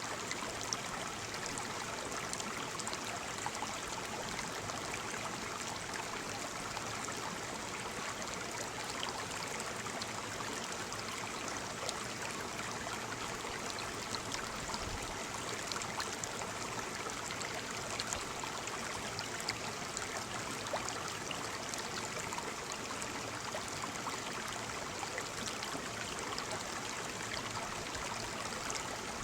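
Waterfall: a steady rush of falling water, with small splashes ticking through it.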